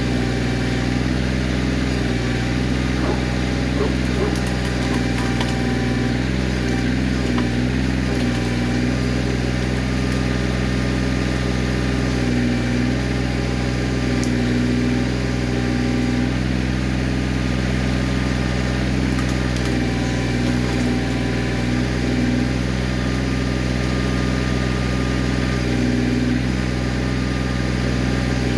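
Kioti CK20S compact tractor's three-cylinder diesel engine running steadily at a constant speed while the backhoe is worked.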